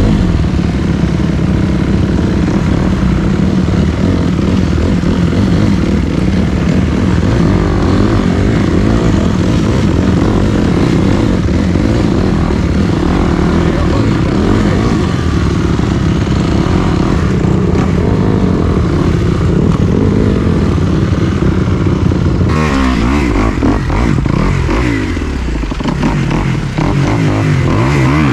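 Dirt bike engine running steadily under way. From about 22 seconds in, the revs rise and fall repeatedly as the throttle is worked.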